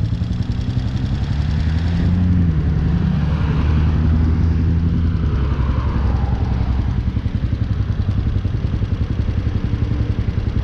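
Hawk 250 dual-sport motorcycle's small single-cylinder engine running under way, its note rising briefly about two seconds in, then settling to a steady run.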